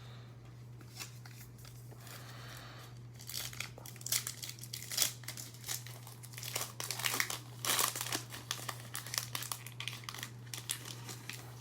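Foil wrapper of a Revolution basketball trading-card pack crinkling as it is torn open and handled, a dense run of crackles starting about three seconds in.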